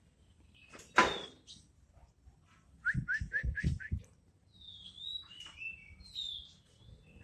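Birds calling: clear whistled notes that slide downward, in two phrases, after a quick run of five short rising chirps with low thumps under them. A single sharp click sounds about a second in.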